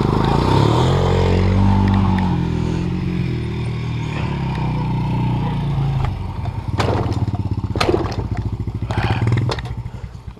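Off-road vehicle engine running at raised revs that fall away over the first several seconds to a pulsing idle, with a few sharp knocks. It stops near the end.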